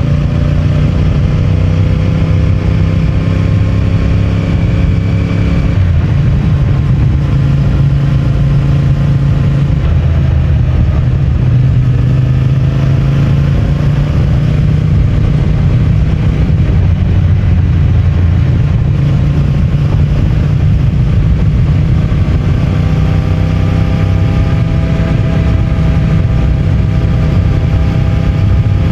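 CFMOTO 450MT's parallel-twin engine running through its stock exhaust while riding. The pitch rises slowly over the first few seconds, changes about six seconds in, and climbs again near the end as the bike picks up speed.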